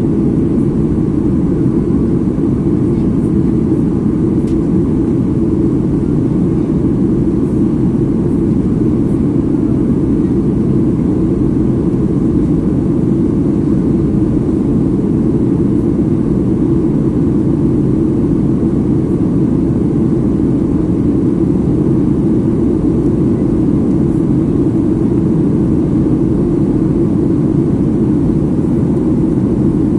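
Steady, loud cabin noise of a Boeing 737 MAX 8 in flight, a low, even rush of its CFM LEAP-1B engines and the airflow heard from inside the cabin, with no change in pitch or level.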